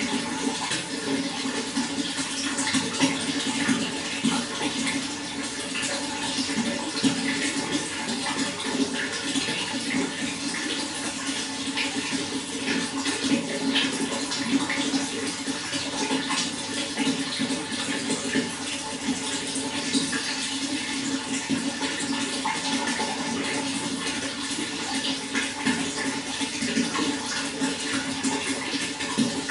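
Running water flowing steadily: a constant rush with a dense patter of small splashes, unchanging throughout.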